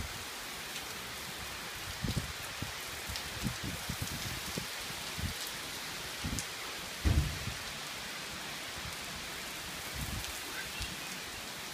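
Heavy tropical-storm rain pouring steadily. A few short low thumps of gusting wind break through it, the loudest about seven seconds in.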